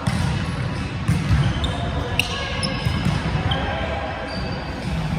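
Indoor volleyball play echoing in a gym: the ball is struck and thumps several times, with a few short high squeaks and players' voices underneath.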